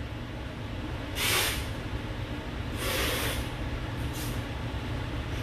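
Two breaths close to the microphone, each a soft hiss about half a second long, over a steady low hum.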